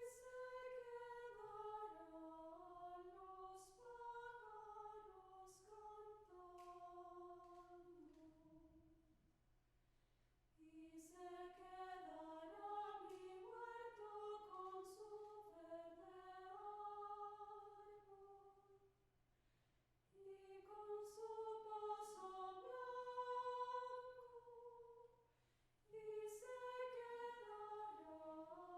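Vocal ensemble singing a cappella in several parts, in flowing phrases broken by three short pauses for breath.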